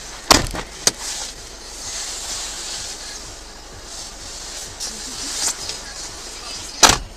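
Steady road and wind noise of a car, broken by a loud sharp bang about a third of a second in, a smaller knock shortly after, and another loud bang near the end.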